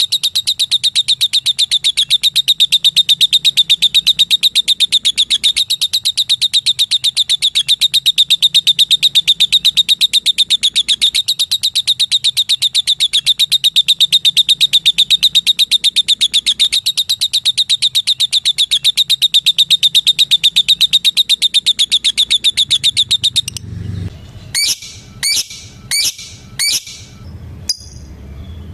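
Female lovebird giving its 'ngetik' call: a long, fast, even run of short high chirping notes, several a second, with no break for over twenty seconds. Near the end it breaks off into four separate calls in quick succession, then a few short chirps.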